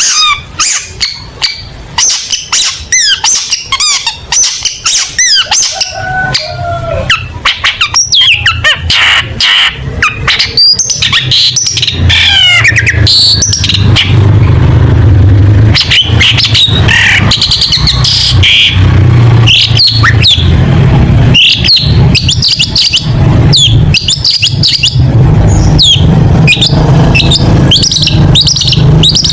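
Long-tailed shrike singing a fast, varied song of chirps, trills and quick rising and falling notes. From about six seconds in, a loud steady low hum runs underneath.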